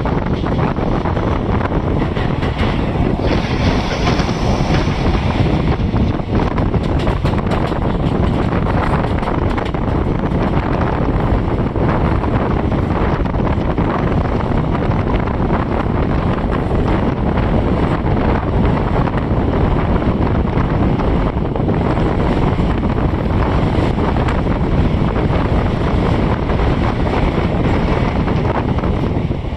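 Moving passenger train running steadily, with loud wind buffeting the microphone.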